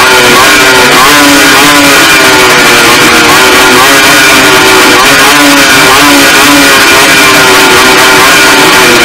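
Several racing motorcycle engines revving on the starting grid, their pitch rising and falling again and again as the riders blip the throttles while waiting for the start. Loud.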